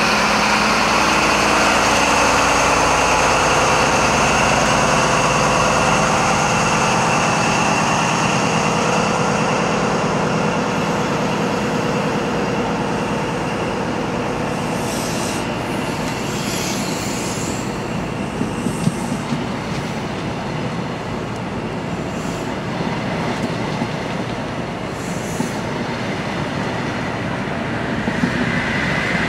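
High Speed Train leaving the platform: the leading Class 43 power car's diesel engine drones under power and fades as it draws away, then the Mark 3 coaches roll past with a steady rumble and scattered clicks of wheels over rail joints.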